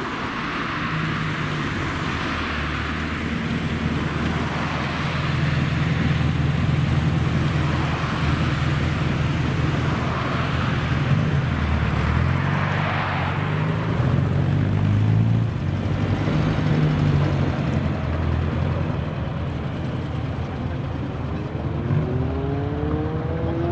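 Supercar engines running at low revs, a steady deep note that shifts in pitch; near the end one engine starts to rev up with a rising note.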